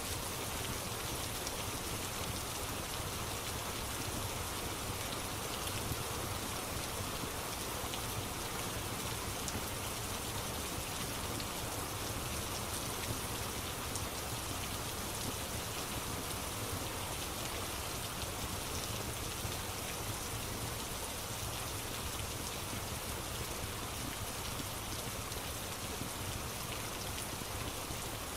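Steady rain falling on a surface, an even, unbroken hiss with faint scattered drop ticks.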